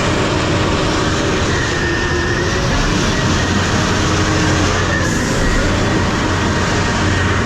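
Heavy truck driving over rough ground: a loud, steady rumble of engine and rattling body.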